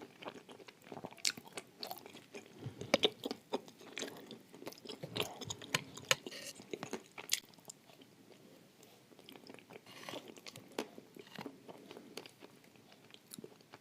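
A person crunching and chewing dry Turkestan clay eaten with blue Uzbek clay paste: many sharp, crackling crunches, thickest in the first half, thinning to quieter, sparser chewing later.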